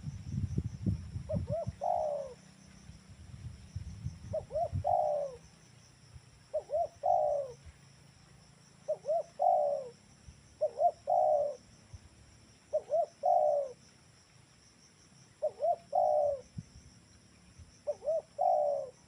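Spotted dove cooing: eight phrases about two seconds apart, each a quick pair of short notes running into a longer coo, with crickets trilling steadily behind. Low rumbling and knocks during the first few seconds.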